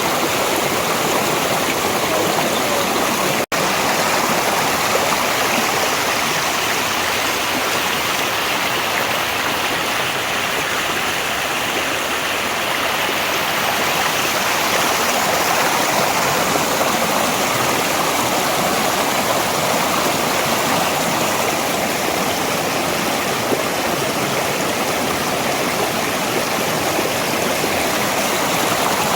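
Mountain valley stream flowing in a steady, even rush of water, with a split-second dropout about three and a half seconds in.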